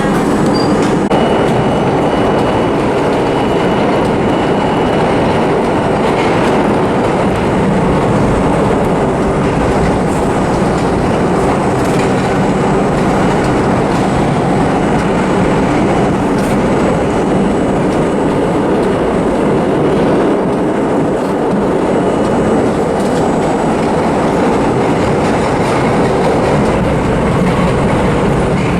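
Vintage New York City subway train running on the rails: a steady, loud rolling noise with faint clicks of the wheels over rail joints.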